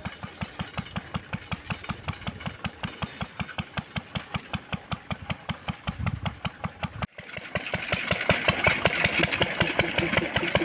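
Lister D single-cylinder engine of a homemade locomotive running steadily, firing about five beats a second. About seven seconds in the sound cuts to a louder stretch with a hiss and rattle over the engine beats.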